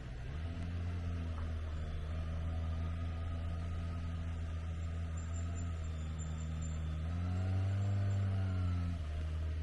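An engine running at a steady pitch, rising in pitch and getting louder about seven seconds in, then settling back near the end.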